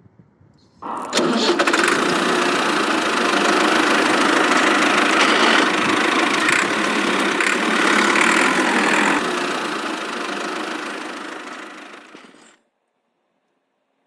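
A motor running steadily, starting abruptly about a second in and cutting off suddenly near the end after easing off slightly.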